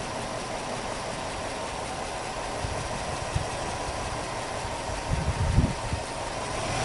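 Subaru Impreza Sports Wagon WRX's turbocharged 2.0-litre flat-four (boxer) engine idling steadily. A few low thumps come about five seconds in, and the sound starts to rise in level near the end.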